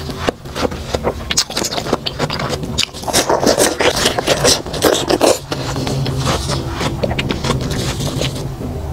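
Watermelon being bitten and chewed close to a clip-on microphone: dense crunching and crackling for about the first five seconds, then quieter, steadier chewing.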